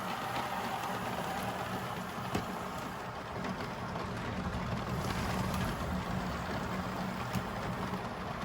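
Steady noise of a thunderstorm's gusting wind and rain, with a faint low hum underneath. Two sharp ticks stand out, one about two seconds in and one near the end.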